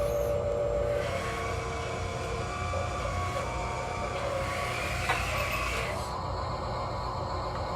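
RC construction machine running: a steady electric motor and gear whine whose pitch shifts, with a rising higher whine that cuts off about six seconds in and a sharp click just before.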